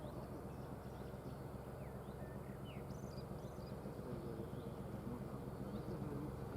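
A diesel engine idling with a steady low hum, while small birds chirp faintly a few times.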